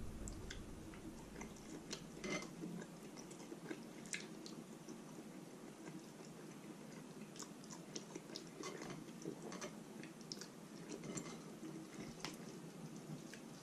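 Close-miked chewing of roast chicken meat, with scattered small wet clicks and smacks of the mouth throughout.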